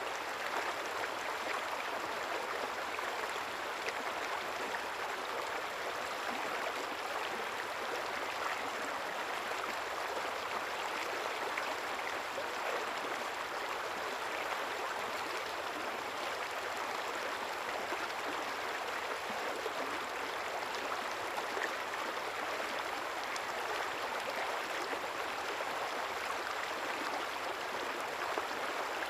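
A river flowing steadily, its water babbling and splashing in a constant wash.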